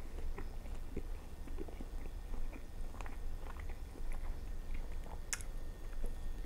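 Close-up chewing and biting of fried Chinese food, with small moist crackles and clicks throughout and one sharper click about five seconds in.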